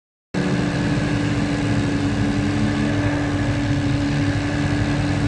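Tractor diesel engine running steadily; it cuts in suddenly, about a third of a second in.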